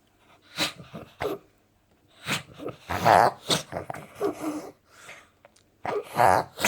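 A pug reverse sneezing: a run of loud, noisy, gasping pulls of air in through the nose, coming in bouts of about half a second to a second with short pauses between them. The strongest bouts come about three seconds in and near the end.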